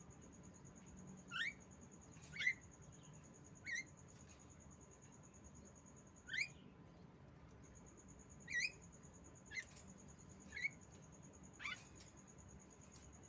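Female Javan myna (jalak kebo) giving short, sharp calls that rise in pitch, about eight at irregular intervals. A steady high-pitched tone runs beneath them, breaking off briefly in the middle.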